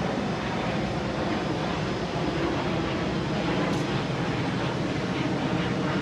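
Steady engine noise from a running vehicle, unbroken and even throughout.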